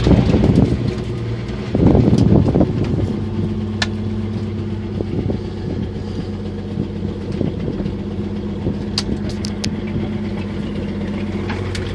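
1977 Jeep CJ5's engine running while driving off-road: two louder surges in the first few seconds, then a steady drone, with scattered knocks and rattles.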